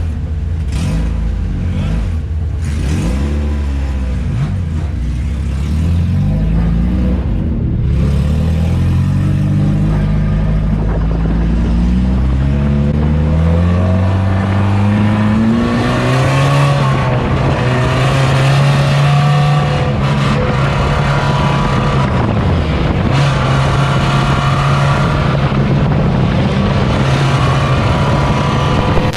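Car engine revving up and down, then pulling up in pitch as it accelerates and settling into a steady drone at speed.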